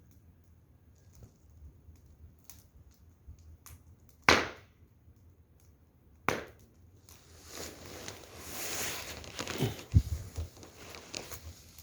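Firewood fire crackling, with two sharp pops about four and six seconds in, then a stretch of rustling and knocking with a low thump near the end.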